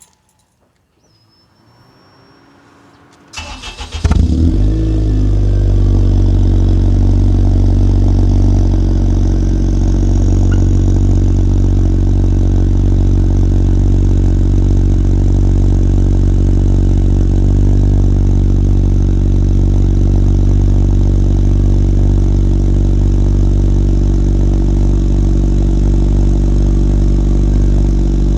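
Cold start of a first-generation Acura RDX's turbocharged 2.3-litre four-cylinder: the starter cranks briefly about three seconds in, the engine catches, then it runs at a steady, loud idle. The sound comes through an exhaust with the rear muffler straight-piped, a Magnaflow glasspack in place of the resonator and the secondary cat removed.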